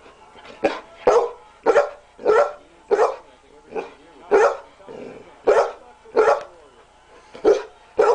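A dog barking repeatedly, about a dozen short, loud barks at roughly two a second, one of them rougher and weaker about five seconds in.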